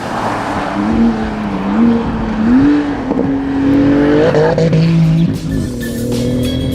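A performance car engine running and changing revs, its note rising and falling several times with a steadier stretch near the end.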